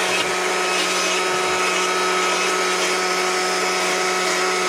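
Die grinder running at a steady high speed, an even motor whine that holds one pitch throughout.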